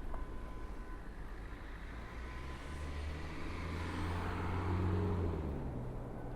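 A motor vehicle passes by on the street. Its engine hum and tyre noise build to a peak about five seconds in, then fade, and the engine's pitch drops slightly as it goes by.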